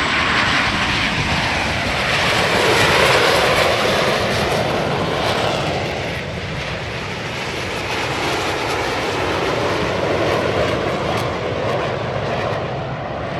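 Jet noise from a formation of Aermacchi MB-339 jet trainers flying overhead: a continuous rushing jet sound that swells and fades slowly, loudest about three seconds in and again near ten seconds in.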